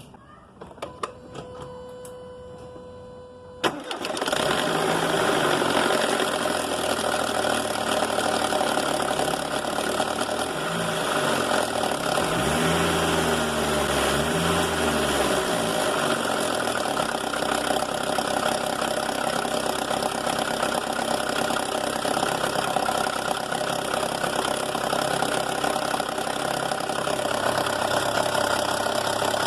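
Mercedes A160 engine starting about four seconds in after a short steady electronic tone, then running and revved up and back down twice before settling to idle. It carries the timing-chain knock that is blamed on a clogged chain tensioner.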